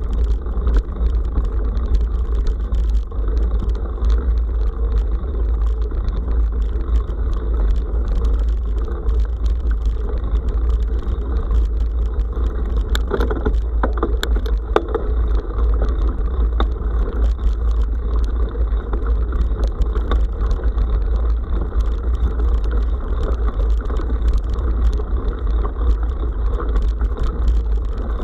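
Steady low rumble of riding along a forest dirt road, picked up by the action camera's microphone, with scattered clicks and rattles from the ride. A cluster of louder rattles comes about halfway through.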